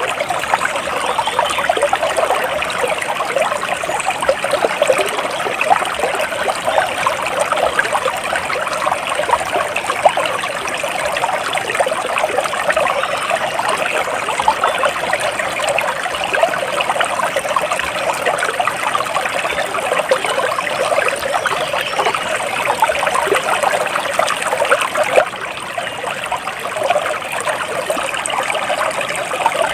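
Water trickling and bubbling steadily in a small stream.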